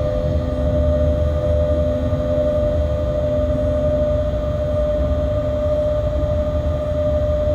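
Steady running noise inside a freight locomotive's cab on the move: a deep rumble with a steady mid-pitched hum over it.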